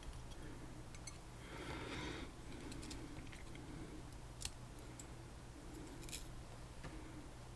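Faint small metal clicks and a brief soft scrape as the pins, spool drivers and springs of a Tesa TK100 pin-tumbler lock are handled while it is taken apart, one click a little louder about halfway through.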